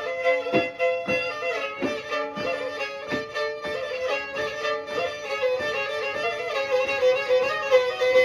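Black Sea kemençe playing a fast folk melody over a sustained drone note, with a steady beat of taps under it.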